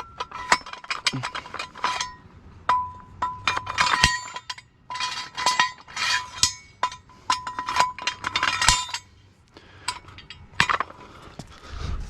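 Hydraulic floor jack being pumped and worked under a car: a quick, irregular run of metal clicks and clinks, with a thin metallic ring coming back between strokes.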